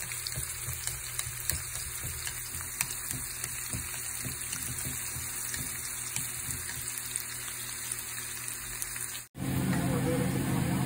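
Sliced shallots sizzling in hot oil in a pan, a steady hiss with scattered small pops. About a second before the end it cuts to a louder, steady low hum.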